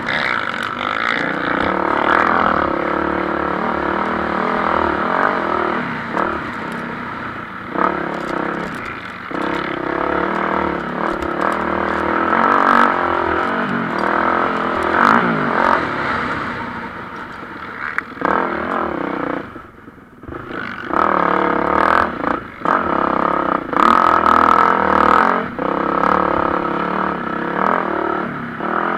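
MX1 motocross bikes racing, engines revving up and down through the gears, often more than one at once. The sound fades briefly about two-thirds of the way through, then picks up again as more bikes come by.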